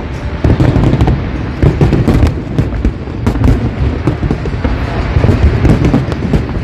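Fireworks going off in a dense barrage: many sharp bangs and crackles in quick succession over a continuous low rumble.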